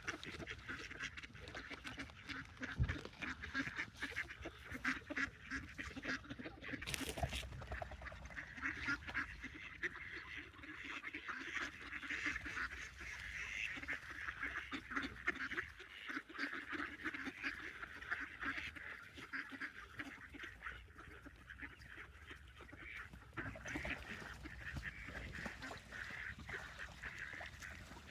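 A flock of ducks and other waterfowl calling over one another, a dense, continuous run of overlapping quacks and honks.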